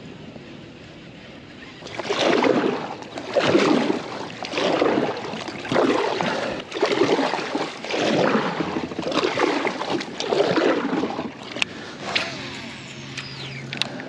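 Kayak paddle strokes in the water, about nine in a steady rhythm of a little over one a second, each a loud swoosh. Near the end the strokes stop, a few light clicks follow and a low steady hum comes in.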